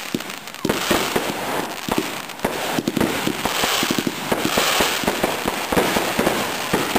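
Consumer 1.4G fireworks going off in quick succession: a dense run of sharp reports and crackling from aerial bursts, with a hissing rush through the middle.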